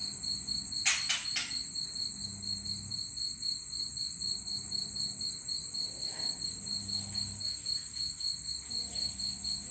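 Cricket trilling steadily at a high pitch, with three sharp clicks about a second in.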